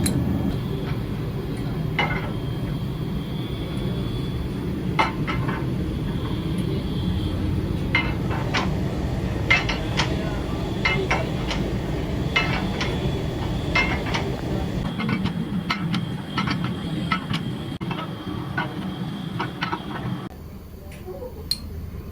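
Light metal-on-metal clinks and taps at irregular intervals, over a steady low machine hum that cuts off shortly before the end.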